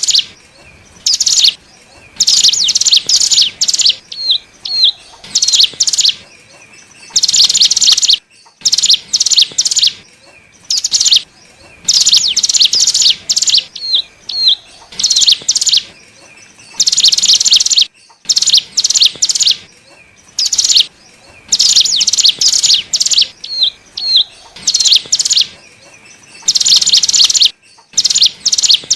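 Cigun (ciblek gunung, a mountain prinia) singing: bouts of rapid, high trilling about a second long, separated by short pauses and single hooked chirps, repeating in a looped pattern.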